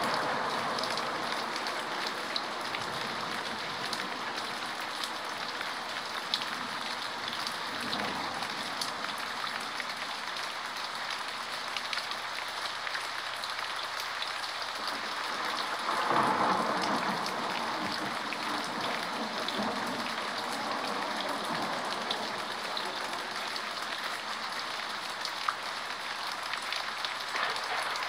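Steady rain, a dense hiss flecked with scattered drop ticks, swelling louder about sixteen seconds in.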